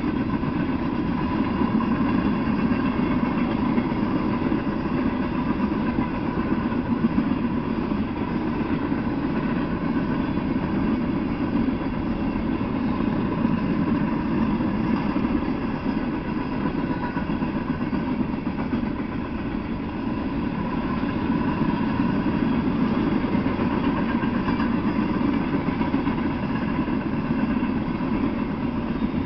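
Loaded coal hopper cars of a Norfolk Southern freight train rolling past: a steady, continuous rumble of steel wheels on the rails, with a faint steady ring above it.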